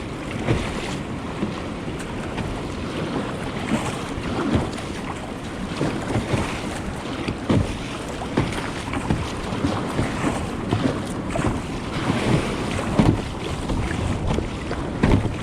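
Small surf waves breaking and water splashing irregularly around a kayak being paddled out through the shore break, with wind rumbling on the microphone.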